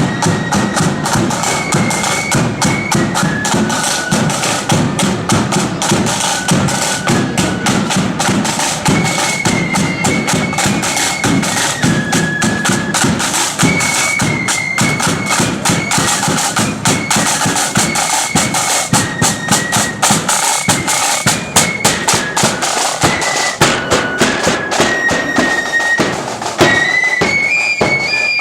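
Marching flute band playing: flutes carry a high, stepping melody over a steady beat of snare and bass drums.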